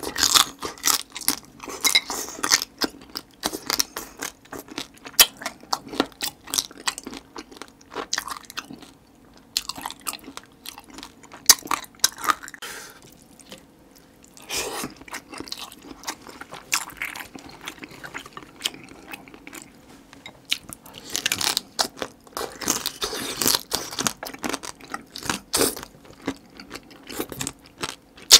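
Close-miked chewing of marinated stone crab, the shells crunching with many sharp cracks in irregular runs, quieter chewing between.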